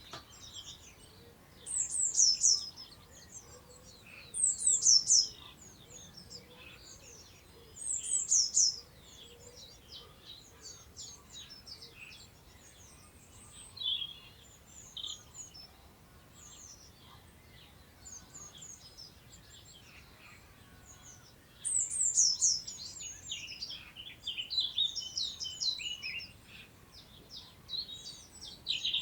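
Several songbirds singing. One bird repeats a short, loud phrase of high falling notes about every three seconds in the first third, and quieter chirps from other birds follow. Near the end a busier burst of song from several birds overlaps, over a faint wind in long grass.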